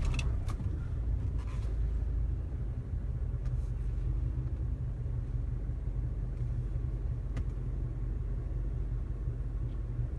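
Low, steady car engine rumble heard from inside a closed car cabin, with a few faint clicks.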